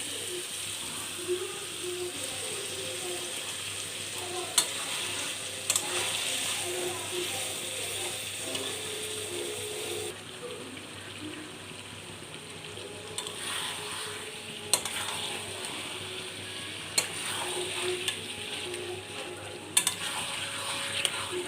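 Chicken curry sizzling in a pan as it is stirred, with a few sharp clinks of the spoon against the pan. The sizzle dies down about halfway through.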